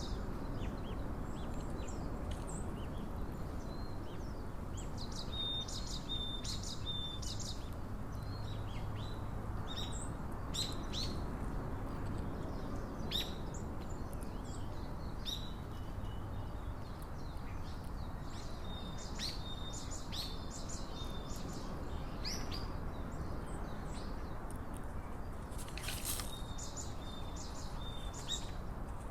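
Small wild birds calling outdoors: many short, high chips and a few brief thin whistled notes, scattered irregularly, with a cluster of calls close together near the end. Under them runs a steady low background rumble.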